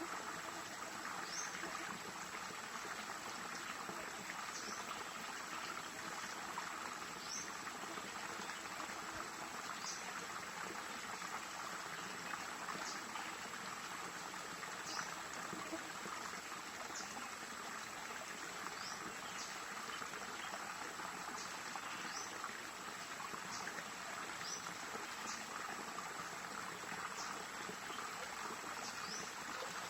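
Stream water flowing steadily over rocks, with short high chirps repeating every second or two.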